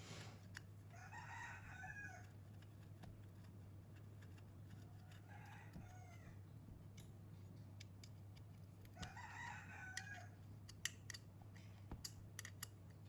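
A rooster crowing faintly three times, about four seconds apart, with a few light clicks near the end.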